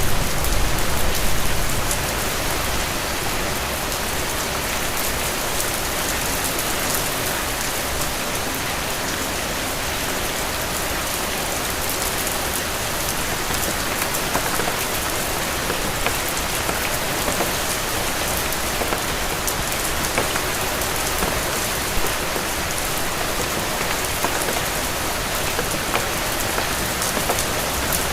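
Steady rain falling on a hard surface, with scattered individual drops ticking through it. A deeper rumble sits under the rain for the first two seconds, then eases off.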